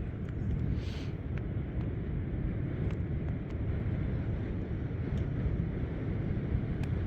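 Steady low rumble of wind buffeting the microphone outdoors, with a brief hiss about a second in.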